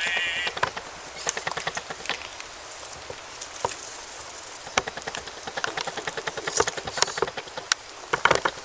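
Backing music with singing cuts off abruptly at the start, followed by a string of irregular light clicks and taps over a low hiss.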